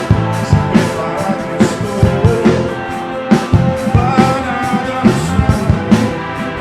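Live worship band playing, with drum kit, guitar and a voice singing.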